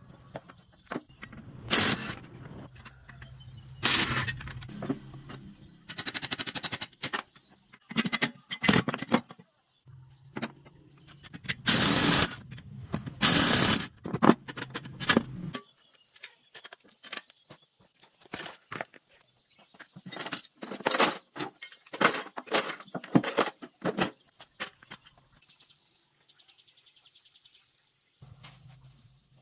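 Metal tools and parts being handled and worked: repeated clinks and knocks with short scraping strokes, over a faint steady hum that stops about halfway through and returns near the end.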